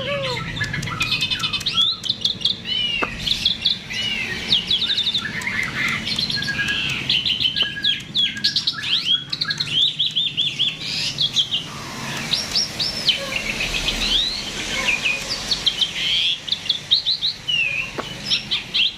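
A starling (jalak) in full song: a continuous, varied string of rapid chirps, whistles and fast trills that glide up and down in pitch.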